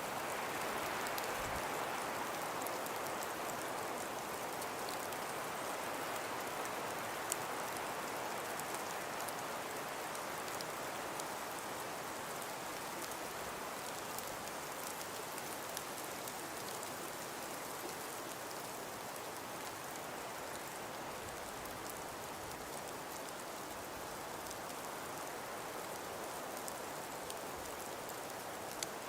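Steady hiss of wind and falling precipitation, with faint scattered ticks of it striking a surface; slightly louder and brighter in the first few seconds.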